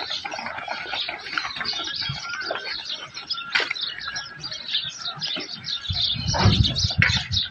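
Small birds chirping busily and continuously, with a low rumble starting about six seconds in.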